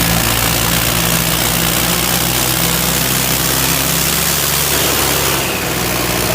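Tractor diesel engine running at a steady, constant speed, loud and close, with a dense hiss over it.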